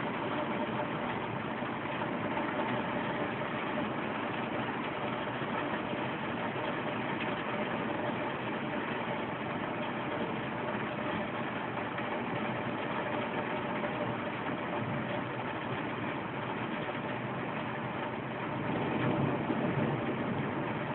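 Steady city background noise, a traffic-like rumble with a faint steady hum, swelling slightly near the end; no thunderclap stands out.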